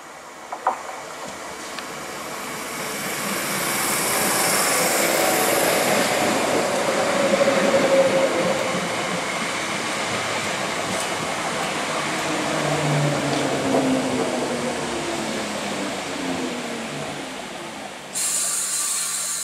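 A ScotRail Class 320 electric multiple unit runs into the platform and slows. The wheel and rail noise builds, then eases as falling tones show it slowing. A sudden hiss starts near the end.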